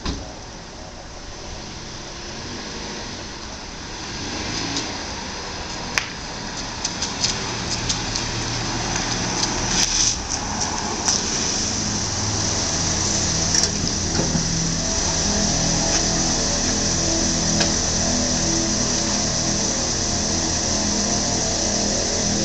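A car pulls in, its engine getting louder, with a few sharp clicks as it rolls up, then idling steadily.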